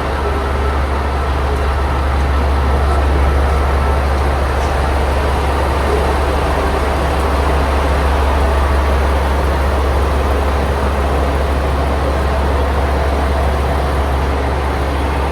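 Train running, heard from inside the carriage: a steady rumble with a strong low hum and an even rushing noise.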